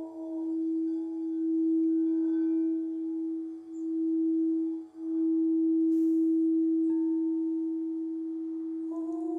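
Singing bowl ringing with one steady low tone and fainter higher overtones, the sound swelling and dipping slowly as it beats. Near the end fresh overtones come in as the bowl sounds again.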